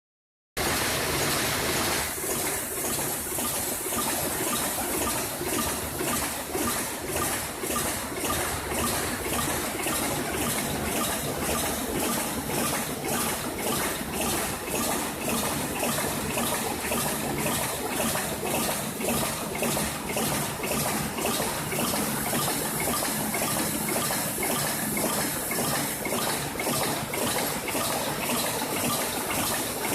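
Automated production machine running: a steady hiss and rush with a fast, regular ticking of about two or three strokes a second as it cycles.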